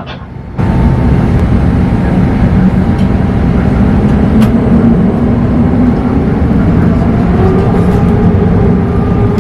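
Boeing 787-9 takeoff roll heard from inside the cabin: loud, steady engine and rolling noise that comes in suddenly just under a second in, with engine tones slowly rising in pitch as the airliner accelerates.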